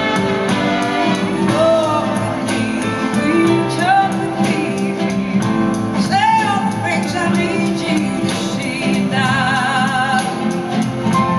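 Live band music: a soul-rock song with sung vocals over guitars, bass and drums, and wavering, vibrato-laden melody notes.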